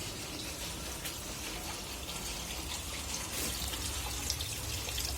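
Rainwater running steadily into a borewell recharge pit, with scattered drips.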